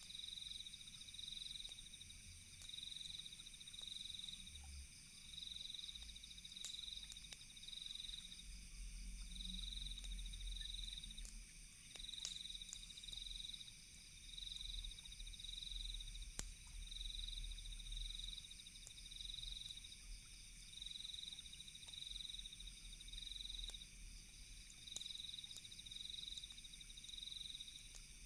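Night ambience of crickets trilling steadily, with one chirp pulsing a little faster than once a second over the trill. Sparse sharp crackles of a campfire and a low rumble sit underneath.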